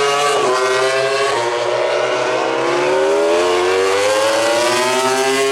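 MotoGP racing motorcycle engine at full throttle, shifting up twice in quick succession and then pulling one long, steadily rising rev.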